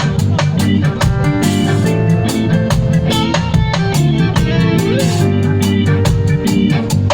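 Live band jamming: guitar and bass over a drum kit keeping a steady beat.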